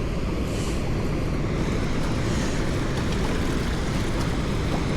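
Steady rushing noise, heaviest in the low end and unchanging, with no distinct events standing out.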